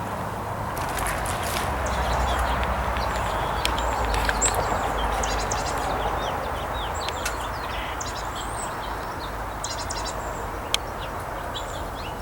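Small songbirds chirping and calling many times in short, high notes over a steady rushing background noise.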